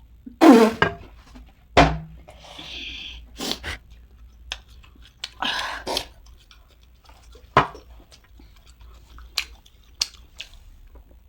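Close-miked chewing of chatpate, a crunchy spicy puffed-rice snack: scattered crunches and mouth smacks, with a brief vocal sound about half a second in.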